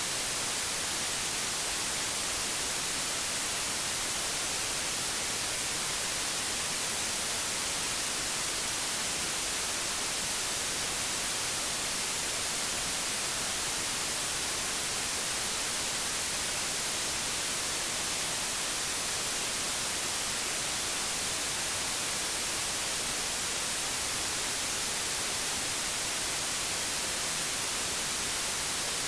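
Television static: a steady, even hiss, brightest in the high frequencies, unchanging throughout.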